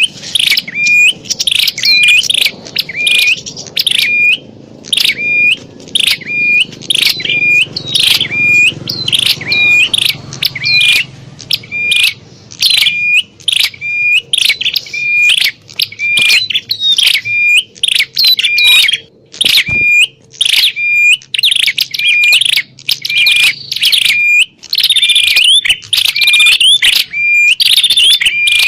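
Prinia (prenjak) calls used as a trapping lure: a fast, loud, unbroken string of sharp repeated chirps, about two a second, the agitated calls of prinias fighting.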